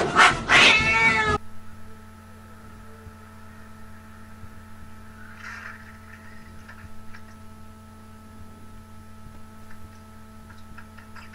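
A cat meowing loudly in the first second and a half, then the sound drops away to a steady low hum with faint rustles.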